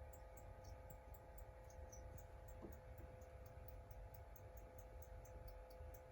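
Near silence: room tone, with a steady faint hum and faint, rapid high ticking, about three or four ticks a second.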